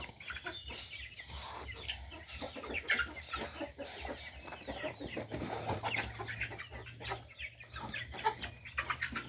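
A flock of chickens clucking.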